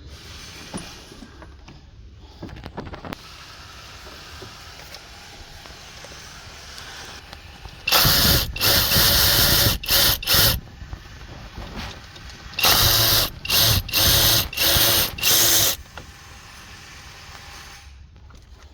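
A handheld power tool run in short trigger bursts: one set of about four bursts some eight seconds in, and a second set of about five a couple of seconds later. Quieter clicks and tool handling in between.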